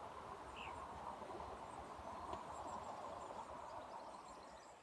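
Camping stove burner hissing steadily while water heats for tea, with one brief high chirp about half a second in. The hiss fades near the end.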